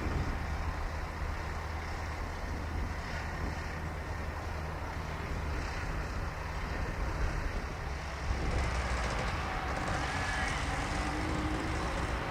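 Diesel freight locomotive running with a steady low rumble under a broad rushing noise; the sound shifts about eight seconds in.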